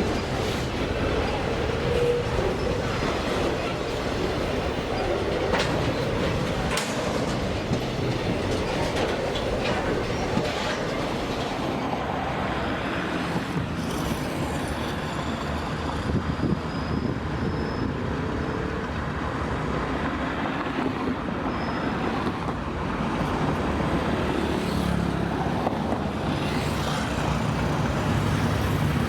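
Freight train wagons rolling past on the track in a steady rumble, the wheels clacking now and then over the rails.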